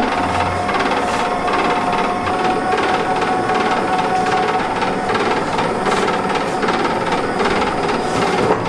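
Repeated sharp knocks and clatter of restaurant kitchen work over a steady high-pitched hum.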